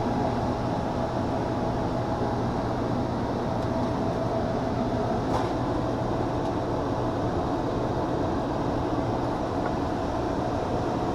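Air-conditioning unit running steadily with its blower moving air, a constant hum under an even rush of air: the repaired blower motor is working again.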